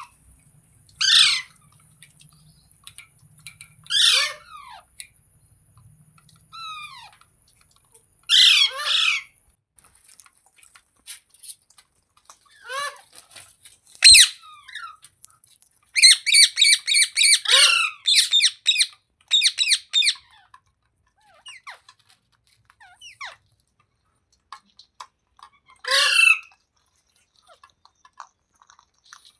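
A parrot squawking: single sharp calls that fall in pitch, spaced several seconds apart, and a fast run of about a dozen squawks in a row around the middle.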